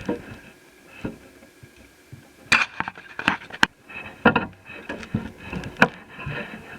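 Hands working on small netbook parts and tools on a work surface: a series of sharp clicks and taps with some scraping, bunched in the middle and later part.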